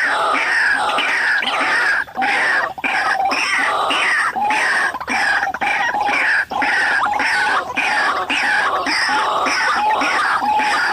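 White-breasted waterhen calls played from a lure recording: a loud, unbroken run of repeated falling notes, about two a second.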